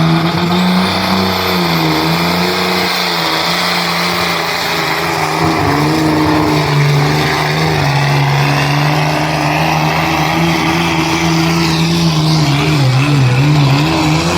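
Light limited super stock pulling tractor's engine running hard under load during a pull, a loud steady note whose pitch dips briefly about two seconds in and again near the end, with a thin high whine above it.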